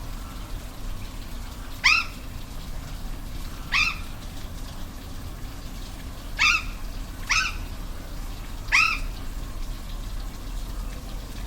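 An animal calling five times: short, rising, pitched calls a second or two apart, over a steady rush of falling water.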